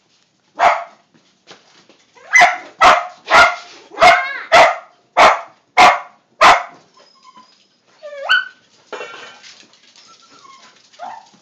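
A dog barking: one bark, then a quick run of about eight loud barks. A short rising yelp follows, and a faint whimper comes near the end.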